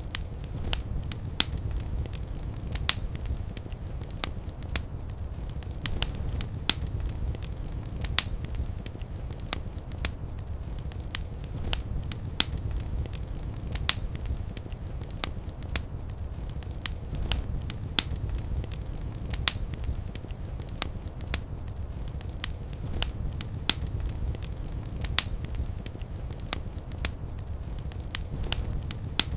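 Wood fire crackling: a steady low rumble of the flames with frequent sharp, irregular pops and snaps.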